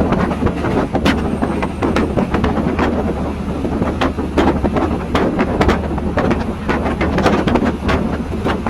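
Train running on the track, heard from on board: a steady low rumble with frequent irregular clicks and knocks from the wheels and carriage.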